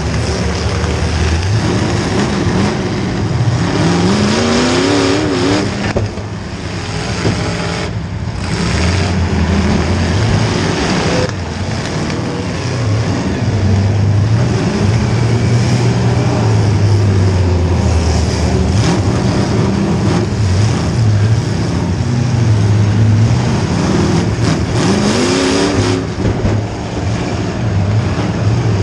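Small-block Chevy V8 of a demolition derby car running hard and revving up and down, with rising revs about four seconds in and again near the end.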